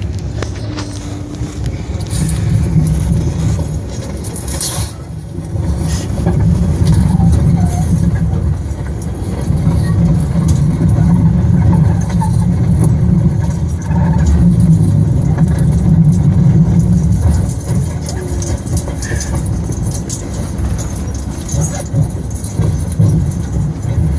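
Low, steady rumble of a moving subway train heard from inside the car, swelling and easing in waves, with a few sharp clicks near the start.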